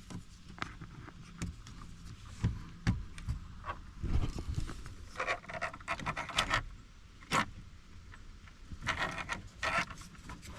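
Irregular plastic clicks, taps and scraping as a push-in 'Christmas tree' retainer clip of a wiring harness is pried and worked loose from a car's ignition lock assembly, with busier clusters of clicking about halfway through and again near the end.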